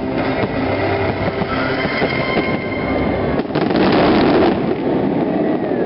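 Fireworks bursting and crackling over the lagoon, with a dense, loud burst of crackle about three and a half seconds in. Held notes of the show music fade out in the first half.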